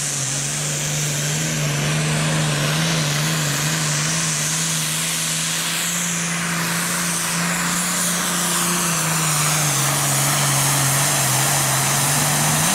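John Deere Super Farm pulling tractor's diesel engine running flat out under load during a pull, its note held steady. The pitch dips slightly about ten seconds in.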